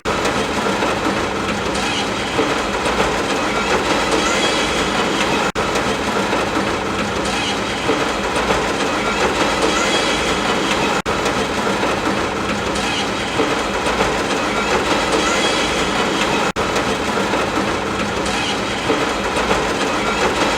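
Steady rumble and clatter of a train ride, with a constant low hum under dense even noise. The sound drops out for an instant about every five and a half seconds, as at the seams of a short repeating loop.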